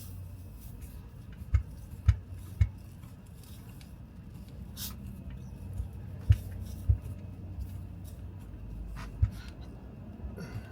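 Hands working a large rubber golf grip onto a club shaft: scattered short knocks and faint rubbing, about seven or eight knocks at irregular intervals, over a low steady hum.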